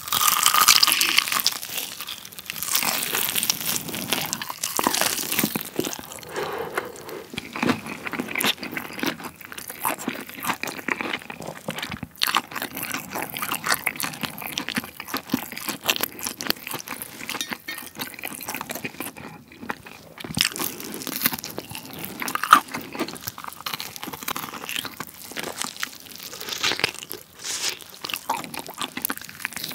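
Close-miked biting and chewing of a crispy battered fried chicken drumstick: a loud crunchy bite at the start, then steady chewing with the crust crackling.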